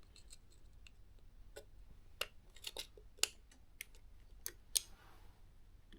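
Light, sharp metallic clicks and taps, about ten scattered irregularly, as the cam belt pulley with its dished washer, spring and circlip is worked by hand and pushed into place on the engine.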